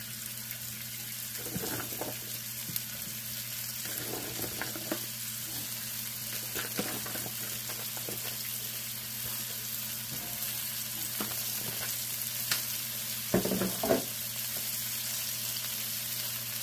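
Green beans and sliced onion sizzling in grapeseed oil in a sauté pan: a steady frying hiss over a low hum, with a few faint clicks and knocks.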